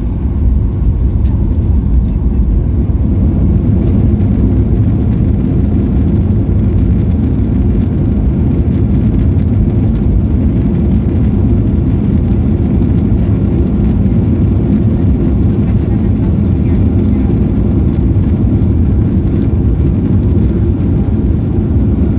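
Cabin noise of a Boeing 737-800 after landing: a steady low rumble from its CFM56 engines and airframe, even in loudness throughout.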